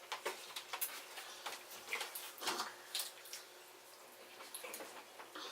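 Small clicks, cracks and smacks of people eating crab legs by hand, many short snaps a second, busiest in the first three seconds and thinning out after.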